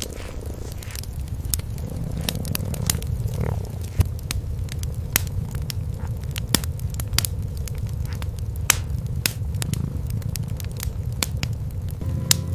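Wood fire crackling in a fireplace, with frequent sharp snaps and a few louder pops, over a steady low rumble.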